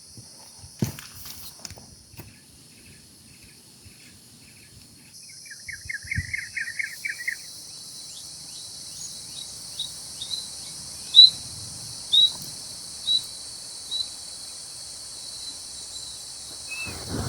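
Steady high buzzing of insects, with birds calling over it: a rapid trill about six seconds in, then a run of short, high chirps about once a second. A single sharp knock sounds near the start.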